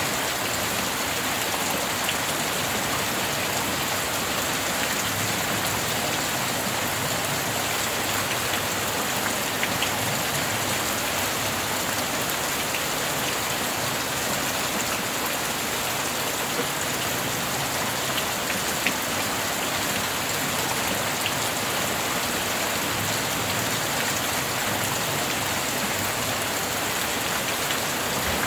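Steady rain falling on a surface, with a few faint drip ticks scattered through it.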